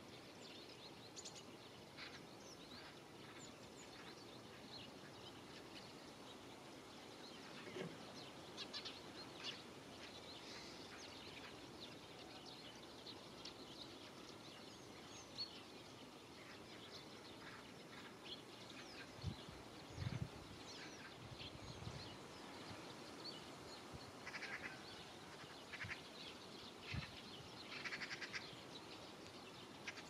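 Faint outdoor ambience: a steady soft hiss with many short, high bird chirps scattered through it, busiest about eight to ten seconds in and again near the end. A few low thumps come about twenty seconds in and once more a little later.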